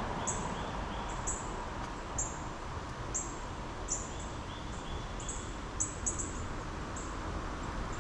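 Outdoor chorus of short, high-pitched chirps repeating irregularly about once or twice a second, likely small birds, over a steady background hiss.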